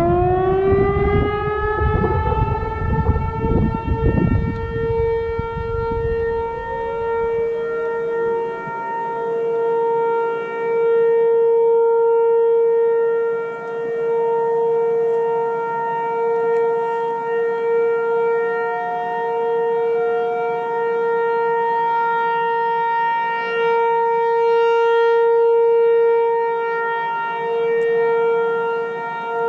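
Outdoor warning siren winding up in pitch and then holding a steady tone, sounding for a tornado drill test. A low rumble sits under it for the first several seconds.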